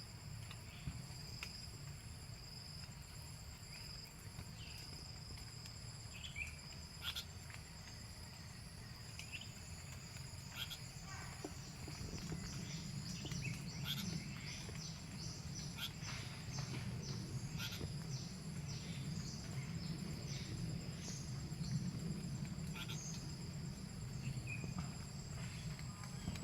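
Insects droning in a steady, high-pitched trill, with many short chirps scattered over it and a low rumble that grows louder about halfway through.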